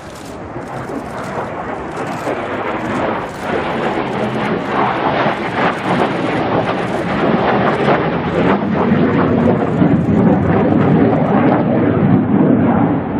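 F-16 fighter jet's single turbofan engine, a loud rumbling roar with crackle, growing steadily louder as the jet approaches.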